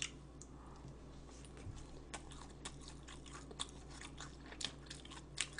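A person chewing food close to the microphone: a run of small, irregular crunchy clicks, a little louder near the end.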